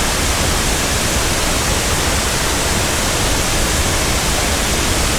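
Steady, loud rush of the Great Falls of Tinker's Creek, water pouring over the rock ledges close by.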